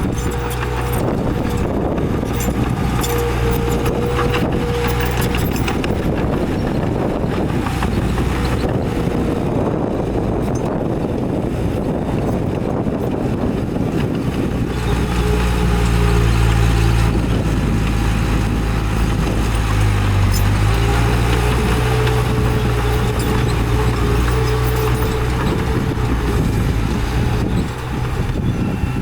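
Heavy diesel earthmoving machinery running under load, with knocks and rattles scattered through roughly the first half. The engine note grows louder and steadier about halfway through.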